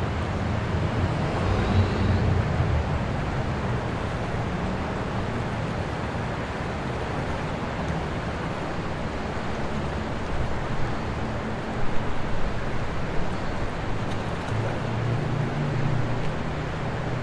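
Steady low engine rumble over an even hiss, with a few brief louder knocks about two-thirds of the way through.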